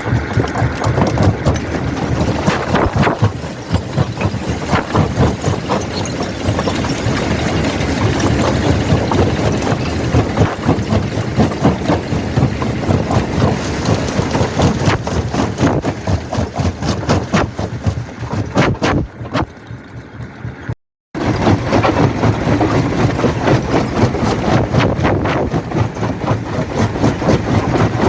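Quarry primary jaw crusher running, with a steady machine drone under frequent sharp cracks and knocks as rock is broken and tumbles through. The noise fades and drops out abruptly about twenty seconds in, then resumes just as before.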